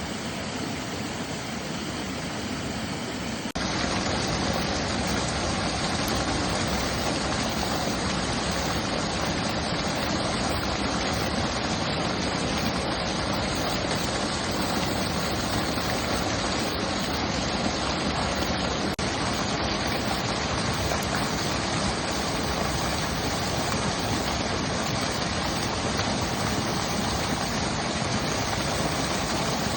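Mountain stream water rushing in a steady wash. About three and a half seconds in it jumps abruptly to a louder, fuller rush that then holds steady.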